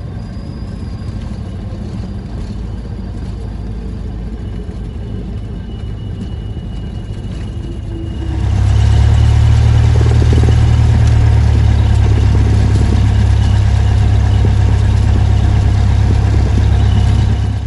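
Cessna Skyhawk's piston engine and propeller running at low power while taxiing, then throttled up about eight seconds in and running steadily much louder.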